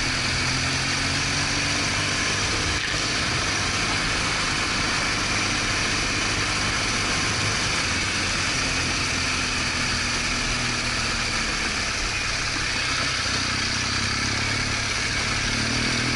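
BMW R1200GS Adventure's flat-twin boxer engine running steadily, its pitch rising and falling gently, over a constant rushing hiss of wind and road noise.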